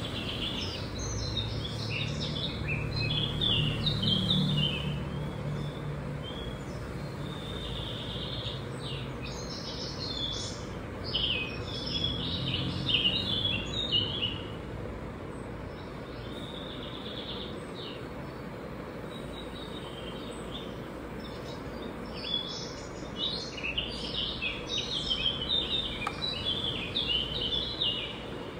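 Birds chirping in quick twittering runs, in three spells, over a steady background hiss; a low hum sits underneath during the first several seconds.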